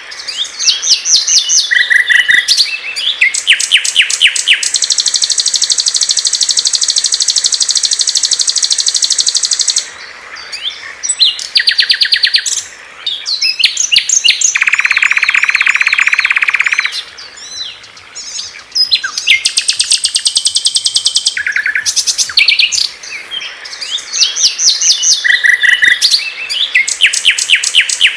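Small songbirds singing loud and clear in quick succession: rapid chattering trills, a long high buzzy trill held for about five seconds, and a lower, fast trill about halfway through, with short pauses between phrases.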